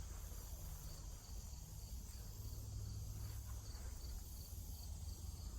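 Faint insect chirping in woodland, a thin high pulse repeating evenly a few times a second, over a steady low rumble on the microphone.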